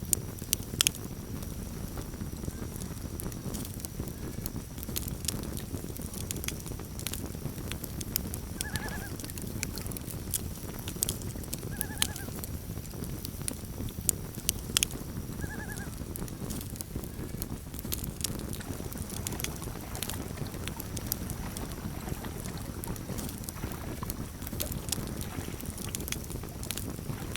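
Campfire crackling, with frequent sharp pops and snaps over a steady low rumble. Near the middle, three short arched animal calls sound about three seconds apart.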